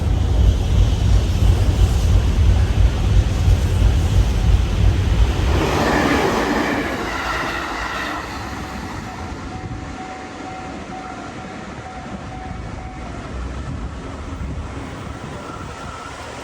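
Train passing close by: a heavy rumble with pulsing wheel clatter for about the first five seconds, a short rush of higher noise around six seconds in, then fading to a quieter rumble as it moves away.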